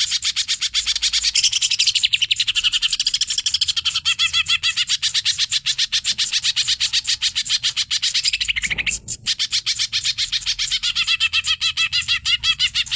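Cucak ijo (green leafbird) singing hyperactively in a very fast, unbroken run of high, sharp chattering notes. The song breaks off briefly about nine seconds in, then resumes.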